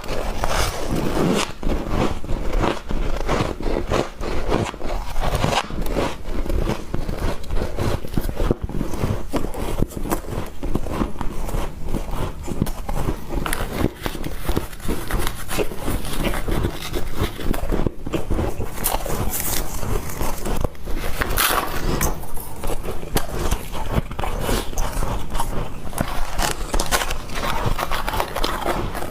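Close-up crunching of squeaky ice being bitten and chewed: a steady stream of dense crackles and snaps, with sharper bites now and then.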